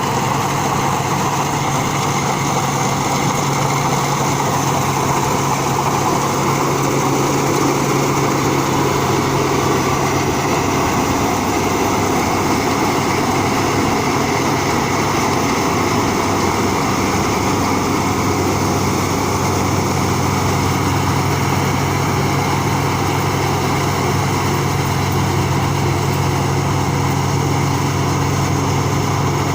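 Rice combine harvester running steadily, its engine and machinery giving an even, continuous drone.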